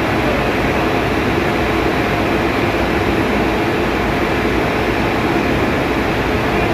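Steady, loud engine-room machinery noise, a constant drone with faint steady hums and no knocks or changes.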